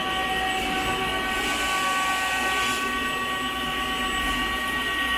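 Weiler E50 lathe running, with a steady high-pitched whine of several held tones that sets in abruptly at the start and stays unchanged.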